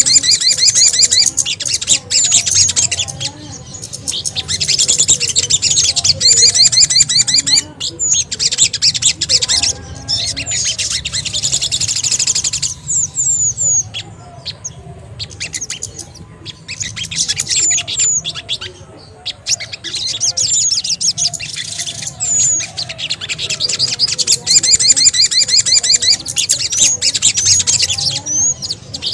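Bird-lure recording of small songbirds calling: bouts of rapid, high-pitched chirps and trills from several birds at once, breaking off for short gaps, used to draw in sogon and kemede birds.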